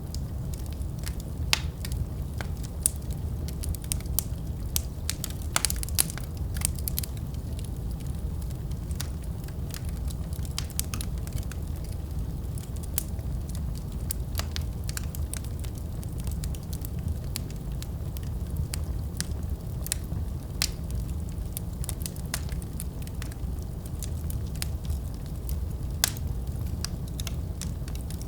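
Wood fire crackling steadily: a low rumble of flames with irregular sharp pops and snaps scattered throughout.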